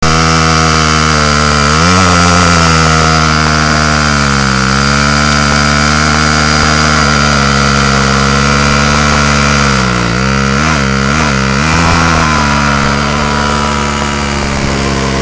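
Small motorcycle engine idling steadily, with short throttle blips about two seconds in and near five seconds, then a quick run of several blips between about ten and twelve seconds.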